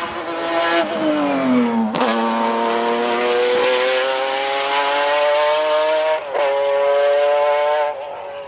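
Nissan 370Z's 3.7-litre V6 being driven hard: revs fall, a sharp gear change comes about two seconds in, then the engine pulls and climbs steadily in pitch under acceleration, with a brief break about six seconds in, before easing off near the end.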